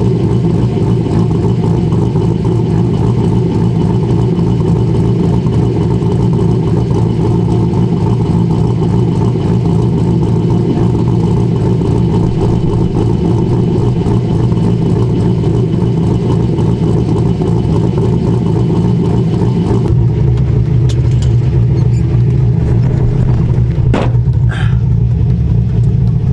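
Corvette LS3 V8 with a BTR Stage 3 camshaft idling steadily with a lopey cam chop. About twenty seconds in the sound changes character, and a few clicks follow near the end.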